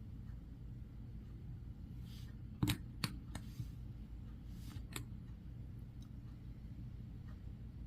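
A nail polish bottle and its brush being handled: a few light clicks and taps, the sharpest about two and a half seconds in and another near the five-second mark, with soft brushing in between, over a steady low hum.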